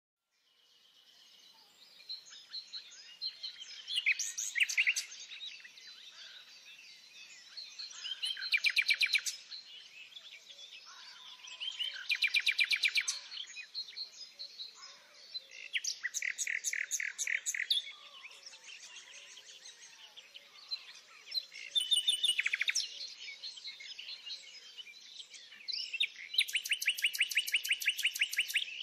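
Birdsong: one bird sings loud phrases of rapidly repeated notes, each a second or two long, about every four seconds, over a constant background chorus of fainter chirping birds.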